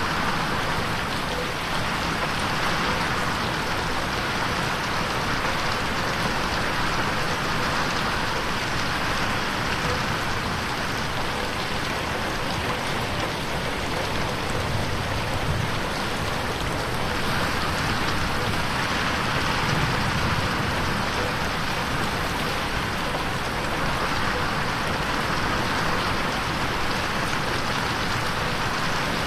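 Steady rain pattering on a window pane, swelling and fading gently every several seconds as if panning around the listener.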